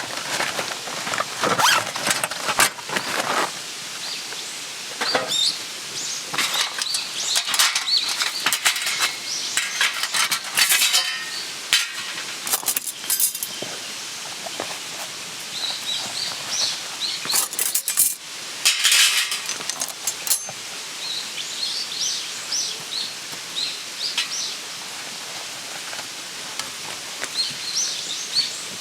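Small birds chirping in short repeated phrases, over frequent rustles, clicks and knocks; the knocks are loudest in a few clusters.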